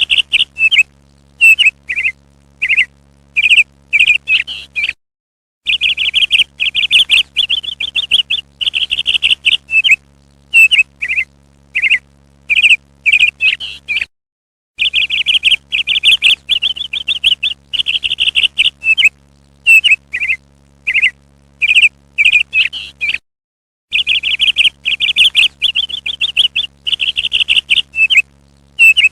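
Parrot calls: bursts of rapid, shrill chattering trills alternating with short single chirps, in a sequence that repeats about every nine seconds with brief silent breaks, like a looped call recording.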